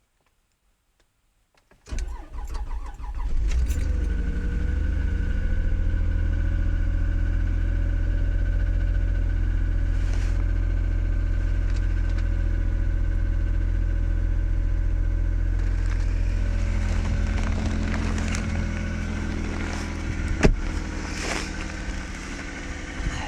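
Toyota RAV4's 3.5-litre V6 cold-started at −20 °C: the starter cranks it for about a second and a half, about two seconds in, and it catches and runs at a steady idle. The idle eases somewhat lower in the last third, and a single sharp click sounds near the end.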